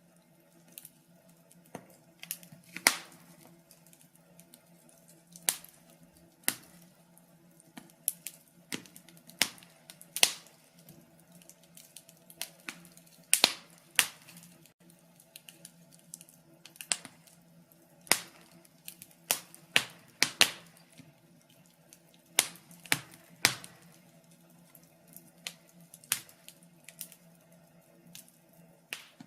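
Wood fire crackling in a fireplace: irregular sharp pops and snaps, a few each second or two, some much louder than others, over a faint steady low hum.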